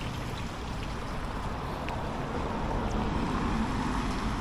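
Steady rushing noise of wind on the microphone and the river flowing, with a low hum building near the end.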